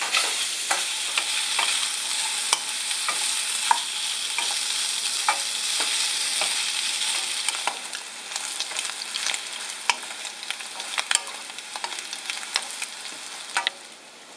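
Strips of Spam sizzling in hot fat in a wok as they are browned and crisped, rendering out their fat, with sharp clicks and scrapes from a wooden spatula stirring them. The sizzle drops somewhat about eight seconds in and again near the end.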